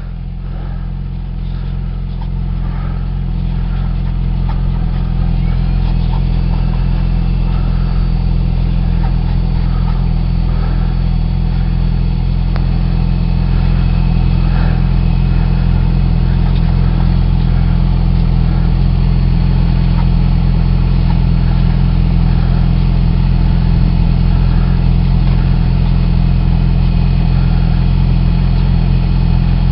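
Yamaha R6's inline-four engine running steadily. It grows louder over the first few seconds, with a slight rise in pitch about six seconds in, then holds an even note.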